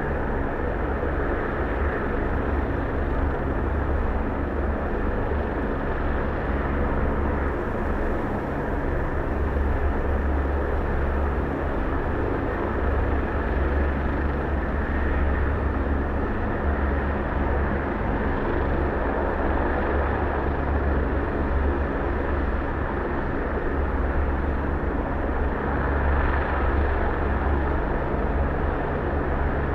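Helicopter's turbine engine and rotor running steadily, a loud continuous low drone with a steady rotor hum and little change over the seconds.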